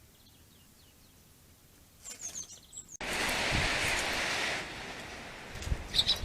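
Garden birds calling with faint high chirps, then clearer gliding calls about two seconds in. About three seconds in, a sudden loud, even rustling hiss starts and fades a second and a half later, followed near the end by another sharp call and a few low thumps.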